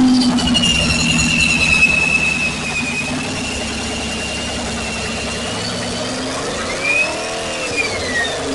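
Supercharged 427 big-block V8 of a 1965 Chevrolet C10 running just after start-up. It holds a higher, louder idle for about two and a half seconds, then settles to a steady idle. Near the end it gives one short rev that rises and falls, with a high whine over the exhaust following the engine speed.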